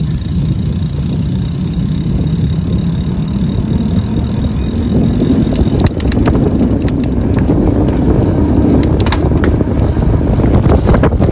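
Riding a bicycle: a steady low rumble of wind on the microphone and tyres on the road. From about halfway there are scattered sharp clicks.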